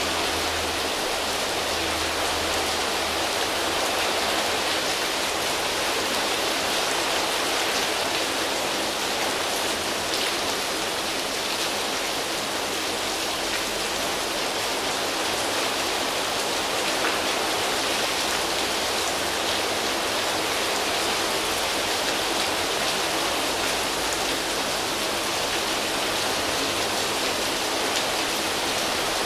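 Steady rain falling on foliage leaves: an even hiss with faint scattered drop ticks.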